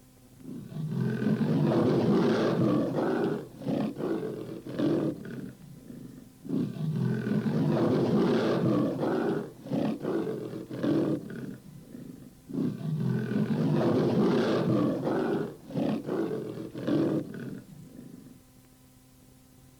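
Sound-effect recording of a big cat roaring, played three times in a row: each time a long roar followed by a run of shorter grunting calls that tail off.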